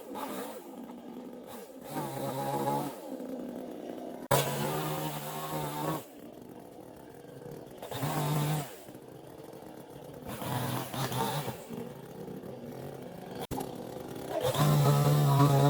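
Two-stroke chainsaw engine revving in repeated bursts of throttle, several times, dropping back to a lower, quieter run between bursts, and running hard and steady near the end.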